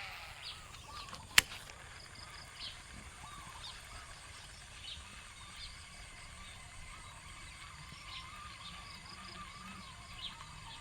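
Outdoor ambience with birds calling: short high chirps repeated every second or so, over a faint steady background. One sharp click sounds about a second and a half in.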